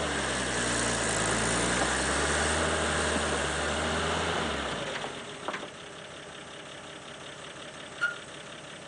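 Old Chevy truck's 235 straight-six engine running steadily. About five seconds in its low drone drops away, leaving a much quieter background with a few light clicks and one sharp click near the end.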